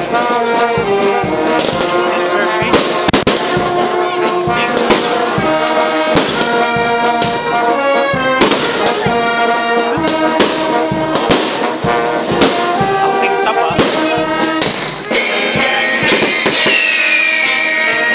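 Fireworks going off in many sharp bangs under loud brass music, and from about three-quarters of the way in, several whistling fireworks each falling in pitch.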